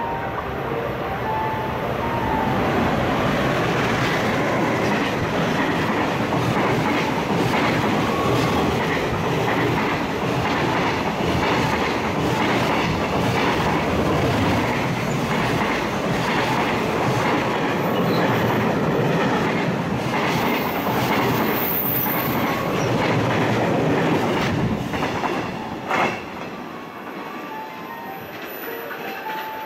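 Container freight train passing close by, its wheels clattering over the rail joints in a loud, steady rush. The clatter falls away near the end as the last wagons go by, with a single sharp click shortly after.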